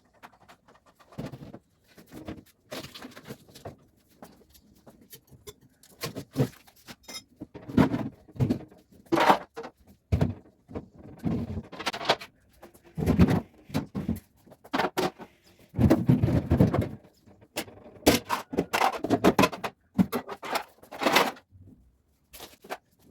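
Household items being handled in a kitchen: irregular clattering, knocks and short scraping noises, with brief gaps between.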